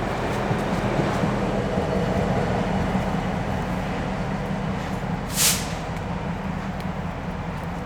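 Steam train led by Central Railroad of New Jersey 0-6-0 locomotive No. 113 running by with a steady rumble, with a brief sharp hiss about five seconds in.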